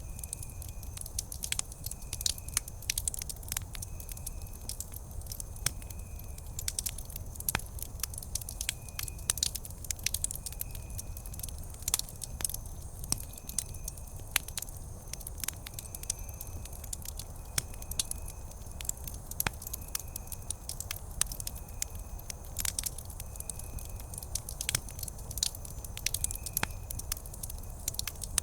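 Wood campfire crackling, with frequent sharp pops and snaps over a low steady rumble. A faint, short high-pitched chirp repeats a little faster than once a second.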